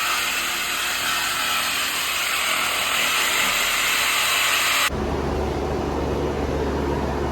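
Shop air tool hissing steadily and loudly, cutting off abruptly about five seconds in, after which a low steady hum remains.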